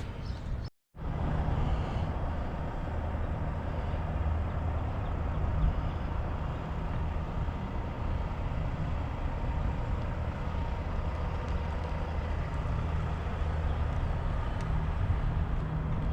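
A vehicle engine idling steadily with a low, even hum. The sound cuts out for a moment about a second in, then carries on unchanged.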